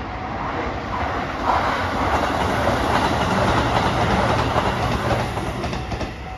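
Sanyo Electric Railway electric train passing on the track. Its running noise swells as it approaches and fades as it goes, with a few wheel clacks over the rail joints near the end.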